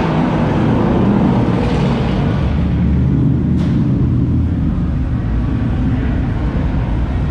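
A car engine running with a steady low rumble, with a brief click about three and a half seconds in.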